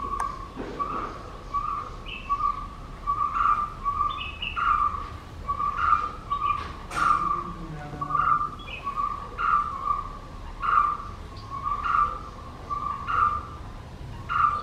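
A bird repeating the same short call over and over, about one and a half times a second. A sharp crack sounds about seven seconds in.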